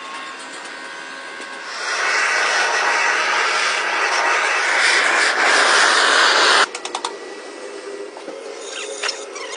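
Loud, steady hissing noise from metalworking shop machinery. It starts about two seconds in over a steady machine hum and cuts off suddenly near seven seconds, followed by light clicks and tool noise.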